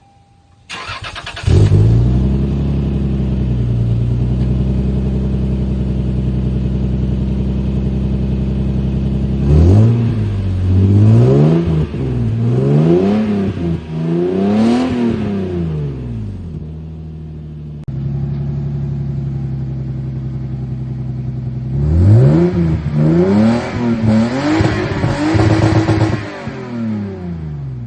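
Lexus GS300's 2JZ inline-six with the muffler deleted, cranked on the starter and catching about a second and a half in, then idling. It is revved several times in quick blips around ten seconds in and again around twenty-two seconds in, dropping back to idle between.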